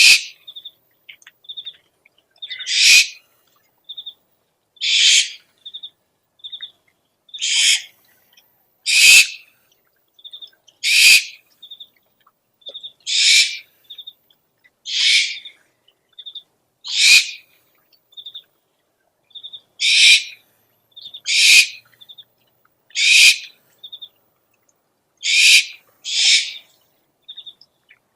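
Owl calls: harsh, raspy screeches about every two seconds, with short high peeps, often in pairs, between them.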